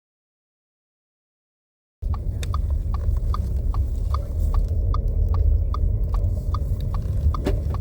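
Inside a moving car: a steady low engine and road rumble with a turn indicator ticking evenly about three times a second. It starts about two seconds in, after silence.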